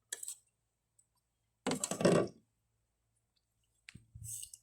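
Handling noises from food preparation: a light click, then a louder knock about two seconds in, and a click with a short rustle near the end.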